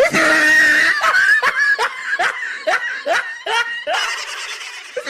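High-pitched laughing sound effect that starts suddenly and goes into a run of short, swooping ha-ha bursts, about two to three a second.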